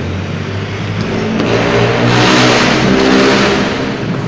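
A motor vehicle's engine running close by, growing louder over about two seconds and then easing off, as a car passing or pulling away does.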